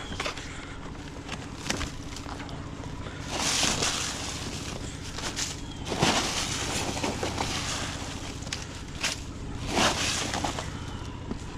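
A discarded baby stroller being handled and worked at, with rattles and scrapes. The three loudest bursts come a few seconds in, around the middle and near the end, over a steady low hum.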